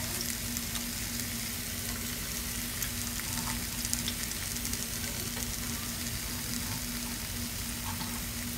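Sliced onions and bell peppers frying in a little oil in a skillet: a steady sizzle with scattered crackles and pops.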